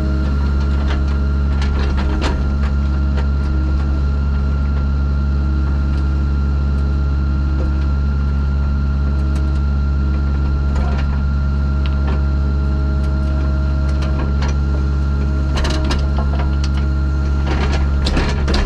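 Diesel engine of a piece of heavy equipment running steadily with a constant whine, with scattered clanks and knocks, more of them near the end.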